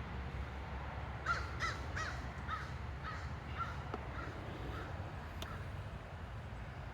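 A bird calling: a run of about ten short, repeated calls, two to three a second, starting about a second in and fading out after about five seconds, over a steady low background rumble.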